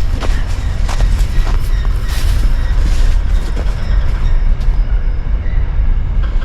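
A train passing on the railway line, a steady low rumble. Twigs and brambles crackle a few times in the first second or so.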